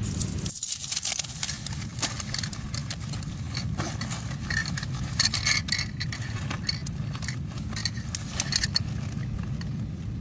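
Small hard objects being handled, clicking, clinking and rattling in irregular bunches over a steady low rumble of wind.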